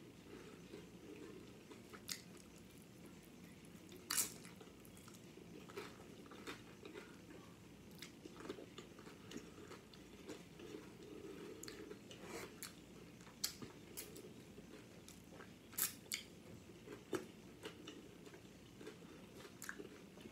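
A person chewing a mouthful of loaded nachos with ground beef, cheese and sauce, faintly, with scattered short crunches of the tortilla chips every second or two.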